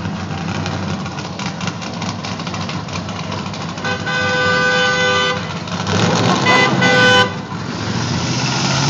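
Car horn honking twice, a steady honk of over a second about four seconds in and another about six seconds in, over running car engines.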